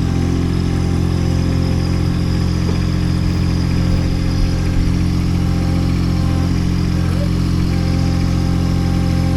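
Baumalight TRL620D mini skid steer's diesel engine running at a steady speed.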